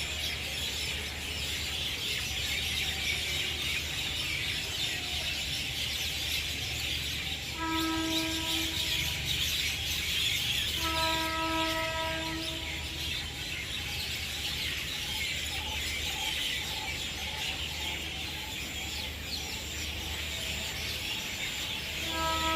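Outdoor ambience of many birds chirping over a steady low rumble, with a few long held musical notes around eight and eleven seconds in and again at the end.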